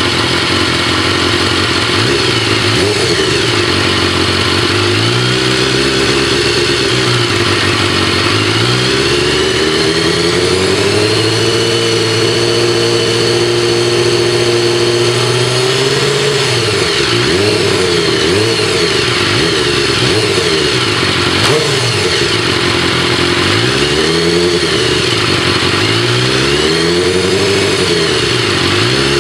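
A stock-exhaust 2012 BMW S1000RR inline-four, warmed up, being revved while standing still. It gives a few revs, then one long rev held steady through the middle, then a run of quick throttle blips that drop back toward idle between them. The stock exhaust is loud.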